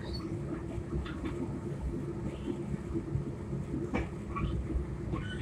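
Long Island Rail Road commuter train heard from inside a passenger car while under way: a steady running rumble with a steady hum under it and a sharp click about four seconds in.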